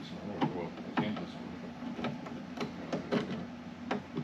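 Irregular light knocks and clicks, several in a few seconds, over a steady low hum.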